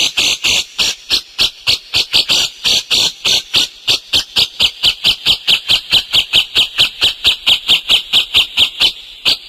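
Songbird calling in a fast, even series of short, sharp, high notes, about five a second, without a break.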